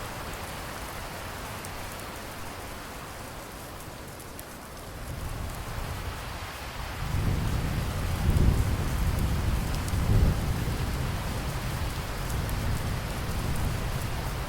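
Steady rain falling, with a long roll of thunder rising in its middle: a deep rumble that swells twice and then slowly fades under the rain.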